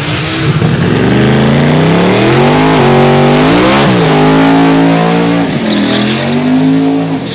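Twin-turbo LS V8 drag-radial Corvette accelerating hard at full throttle. Its pitch climbs, falls sharply at gear changes about four and five and a half seconds in, then climbs again.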